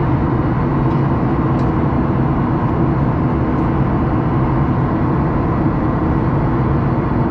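Steady jet airliner cabin noise: the engines and the rush of air past the fuselage, a constant low roar with a few steady hums.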